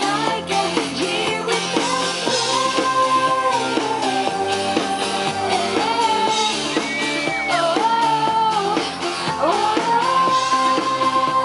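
Pop song: a woman singing long held notes that glide between pitches, over a full band backing.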